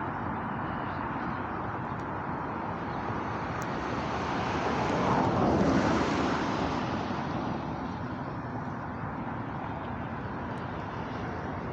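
A passing vehicle over steady outdoor traffic noise: the rushing sound grows louder to a peak about halfway through, then fades away again.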